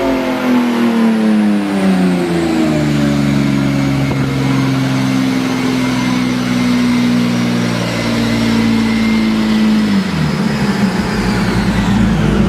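Turbocharged Nissan 370Z's VQ37 V6 engine coming off a run: the revs fall, hold steady for several seconds, then drop again about ten seconds in, under a thin high whine that slowly falls in pitch.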